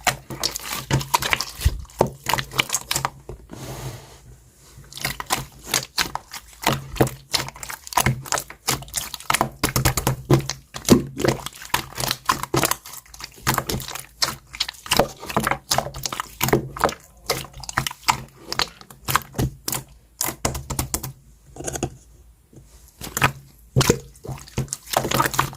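Clear slime topped with coloured slime being squished and poked by hand, a dense run of wet, sticky clicks and pops, easing off briefly twice.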